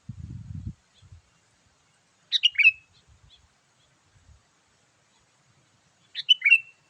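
Sooty-headed bulbul calls: a short, bright phrase of a few quick notes, given twice about four seconds apart. A brief low rumble, like handling noise, comes at the very start.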